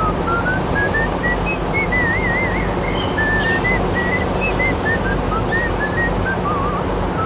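A whistled melody of short notes that step up and down, with a couple of warbling trills, over a steady dense background noise.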